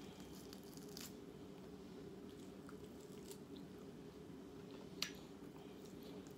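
Quiet eating sounds close to the microphone: chewing, with two sharp clicks, one about a second in and a louder one near the end, over a steady low hum.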